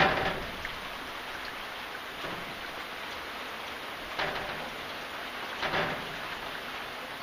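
Steady rain falling, an even hiss, with brief louder swells at the start, about four seconds in and again near six seconds.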